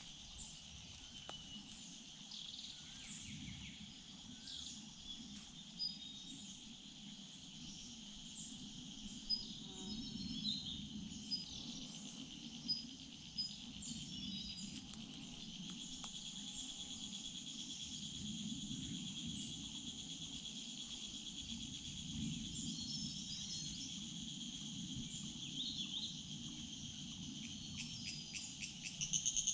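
Steady chorus of insects trilling, with scattered short bird chirps over it and a low background rumble.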